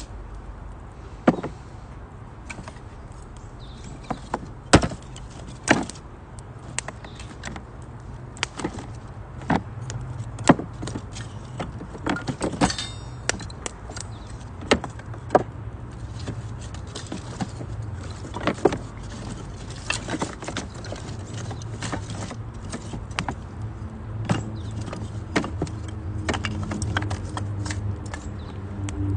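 Wood fire burning in a Uniflame Nature Stove Large, crackling with irregular sharp pops over a steady low rumble, and a brief high hiss about halfway through.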